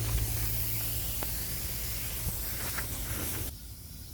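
Water spray from lawn sprinklers hissing close to the phone's microphone, with a few faint ticks of droplets. It cuts off suddenly about three and a half seconds in.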